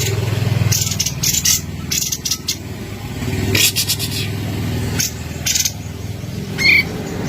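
Kapas tembak bulbul giving short, sharp high-pitched call notes in quick bursts, over a steady low hum.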